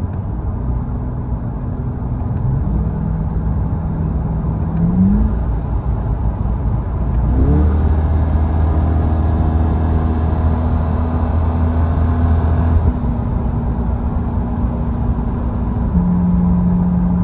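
Chevrolet Corvette E-Ray's 6.2-litre V8 revving up through paddle-shift downshifts. The pitch jumps about 5 and 7.5 seconds in, and the engine is held high past the 4,500 rpm break-in redline before dropping back around 13 seconds in, with another step down near the end.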